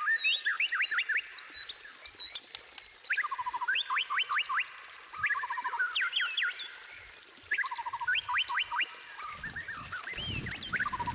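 White-rumped shama singing, repeating phrases of rapid rising whistled notes, four or five in quick succession, every couple of seconds, with thin high twitters between. A low rumble comes in near the end.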